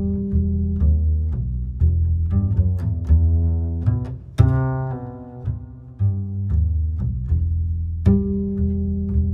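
Slow, relaxing guitar music: plucked notes ringing over deep bass notes, with the strongest attack about four and a half seconds in.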